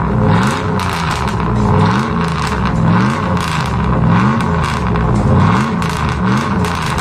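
A tuned car engine revved again and again in quick blips, its pitch climbing and dropping about every two-thirds of a second.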